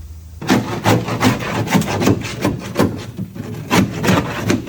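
A scraper working along a car's sheet-metal floor pan in repeated scraping strokes, about three a second, starting about half a second in. The bitumen sound deadening has been frozen with dry ice and alcohol, so it breaks away in chunks.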